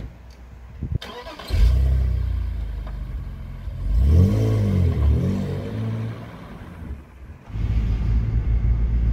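A car door shuts, then a BMW E46 3 Series coupe's engine starts about a second and a half in and is revved twice, the pitch rising and falling each time. Near the end comes the steady engine and road noise of a car driving, heard from inside the cabin.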